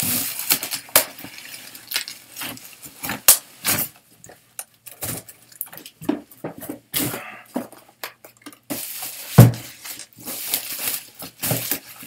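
Parcel packaging being handled and pulled open: irregular crinkling, crackling and rustling of plastic wrapping and bubble wrap, with one loud thump about nine seconds in.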